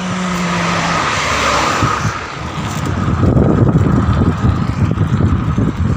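A motor vehicle passing on the road: a steady hum with a hiss that swells and fades over the first two seconds. From about three seconds in, gusty wind rumbles on the microphone.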